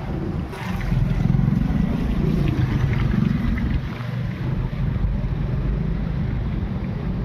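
Steady low rumble of wind buffeting the microphone, swelling a little about a second in.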